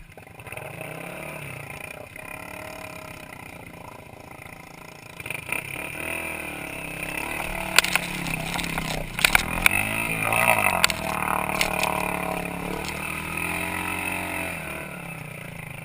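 A motorcycle engine running, its pitch rising and falling as it revs. It grows louder about five seconds in, with a few sharp knocks in the middle.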